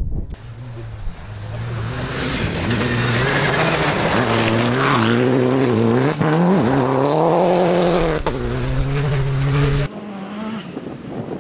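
Rally car engine at high revs on a gravel stage, holding its note and then dipping and climbing as the driver shifts and accelerates. Two sharp cracks come at about six and eight seconds in. The engine sound cuts off abruptly near the end, leaving fainter background noise.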